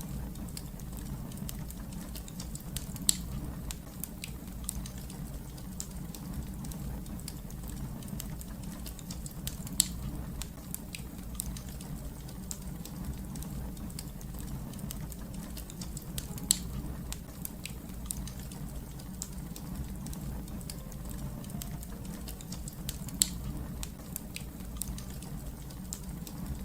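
Fireplace fire crackling: a continuous scatter of sharp pops over a steady low rumble. Four louder pops stand out, about six to seven seconds apart.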